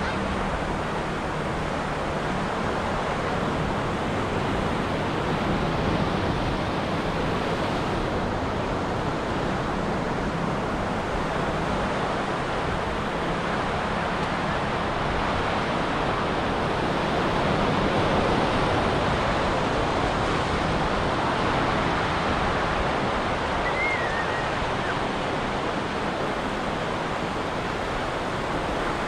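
Ocean surf washing onto a beach: a steady rushing of breaking waves that swells and eases gently.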